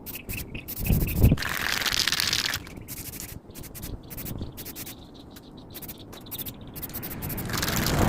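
Aerosol can of high-temperature silicone coating spraying in two short hissing bursts, about a second each: one a little over a second in and one near the end. A low knock comes just before the first burst.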